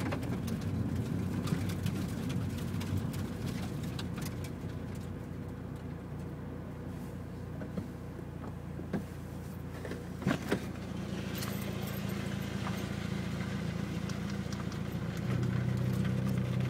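Car engine running at low speed and idling, heard from inside a car. There are a few sharp clicks about nine and ten seconds in. The engine note steadies from about eleven seconds in and grows louder near the end.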